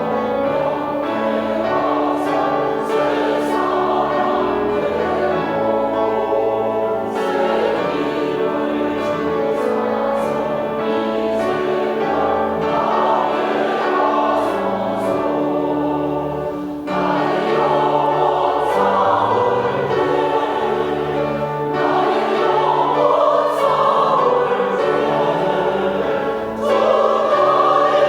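Church choir singing a hymn anthem in sustained chords, phrase after phrase, with short breaks between phrases; the singing swells louder near the end.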